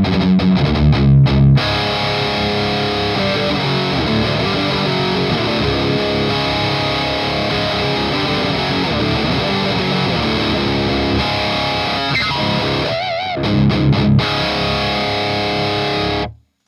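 Distorted electric guitar played through a Skull Driver V2 Evolution overdrive pedal into an amp and 2x12 cabinet. It opens with short choppy chugs, moves to ringing held chords, has another burst of chugs near the end, then cuts off suddenly.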